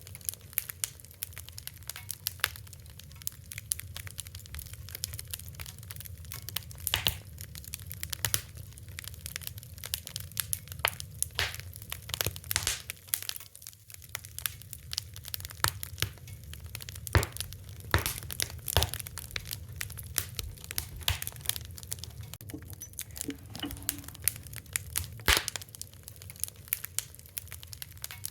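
Fire crackling: irregular sharp pops and snaps, often several a second, over a steady low rumble.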